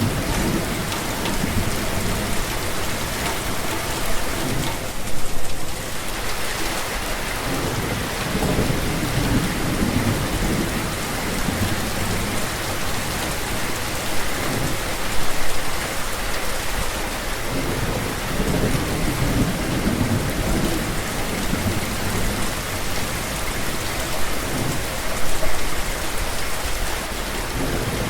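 Steady heavy rain, with low rumbles of thunder swelling and fading several times.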